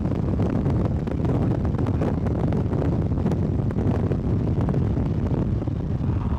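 Strong wind buffeting the microphone over the steady rumble of a moving vehicle, with a few faint scattered ticks.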